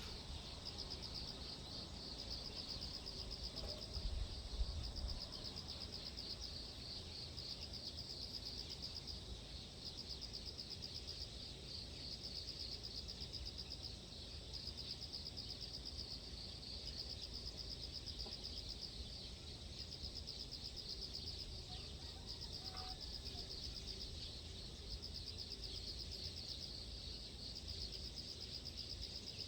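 A steady chorus of insects trilling, a fast, even high pulsing that does not let up. A few low rumbles come in the first five seconds.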